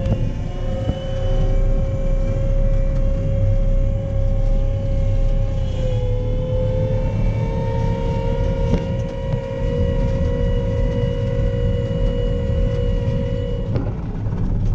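Large diesel farm machine running under load: a deep, steady engine rumble with a steady whine over it, which stops shortly before the end.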